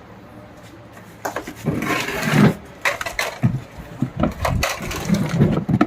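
A run of irregular knocks, thuds and clatter, as of hard objects being handled and set down, starting about a second in.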